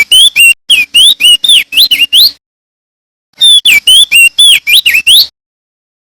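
Male opior jambul (crested white-eye) singing: two loud phrases of quick, clear whistled notes that swoop up and down, each lasting about two seconds, separated by a short pause.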